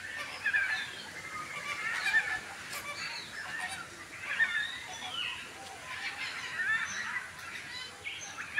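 Many birds calling at once: a busy, overlapping chorus of short chirps and squawks.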